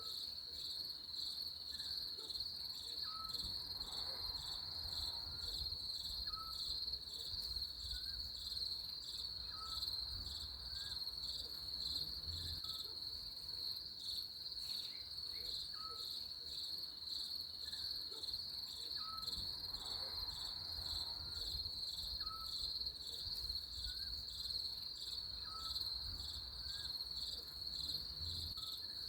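Crickets chirping in a steady, high-pitched, finely pulsing trill, with faint short chirps repeating about once a second underneath.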